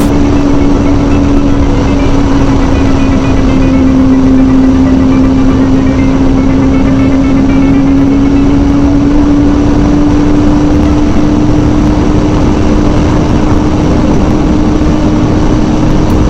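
2006 Kawasaki ZZR600's inline-four engine pulling at steady high revs, with heavy wind rush over the microphone. Its pitch sags slightly a few seconds in, then climbs back and holds.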